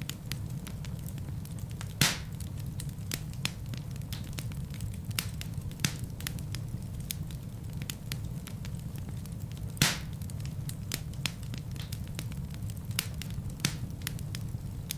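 Wood fire burning in a fireplace: a steady low rumble of flames with frequent crackles and snaps, and two louder pops, about two seconds in and near ten seconds.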